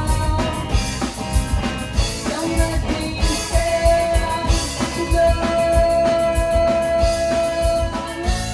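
Live rock band playing: a drum kit keeping a steady beat under guitar, with a long held note through the middle.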